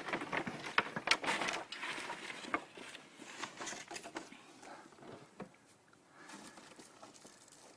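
Bonfire crackling and popping in quick irregular snaps, dense at first and thinning out over the last few seconds.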